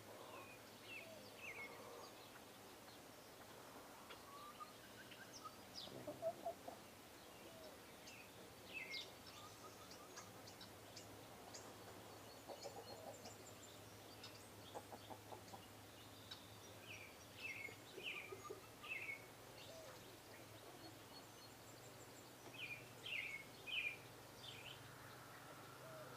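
Small birds chirping faintly and intermittently, with short calls and quick falling notes coming in scattered clusters over a low steady background hum.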